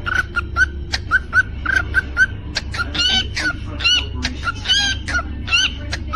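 Cockatiel chirping: a quick run of short, repeated chirps, about three a second, with a few louder, fuller calls in the middle.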